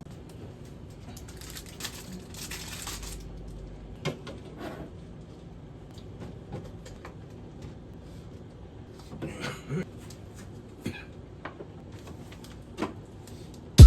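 Grocery packaging being handled: a rustle about two seconds in, then scattered light knocks and clicks.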